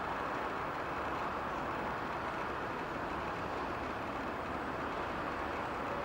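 Steady, even rushing background noise, with no distinct calls, knocks or changes.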